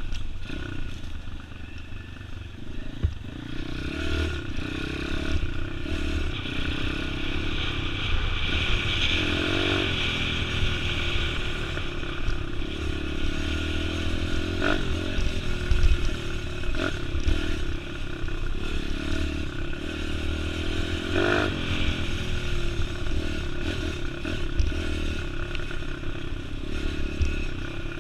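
Pit bike's small four-stroke single-cylinder engine running and revving up and down while riding off-road, with some clatter and a few knocks from the bike.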